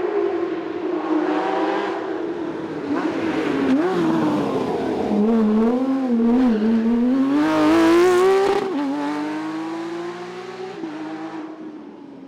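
Racing car's engine working hard up a hillclimb: the revs climb and drop sharply at each upshift, about three times, and waver for a couple of seconds as the throttle is modulated. It is loudest about eight seconds in, then fades as the car pulls away.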